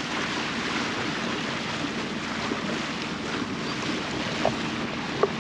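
Water rushing along a sailboat's hull and wind on the microphone, over a faint steady hum from the boat's engine while motor sailing. Two short chirps sound near the end.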